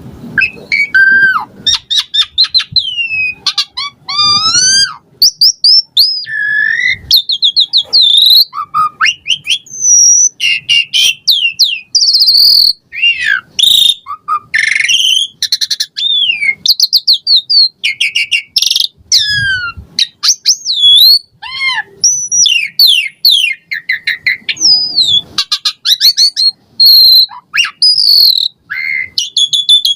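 Asian pied starling (jalak suren) singing nonstop. It is a long, varied song of whistles, rising and falling glides, fast trills and chirps in quick succession, packed with mimicked phrases.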